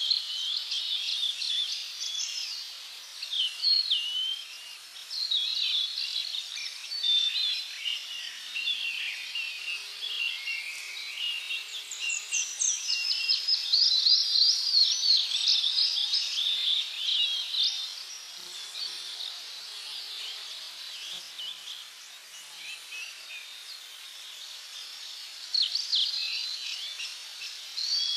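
A chorus of tropical songbirds chirping and trilling with many overlapping calls, busiest near the start and in the middle and thinning out for a while after that, over a faint steady hiss of background ambience.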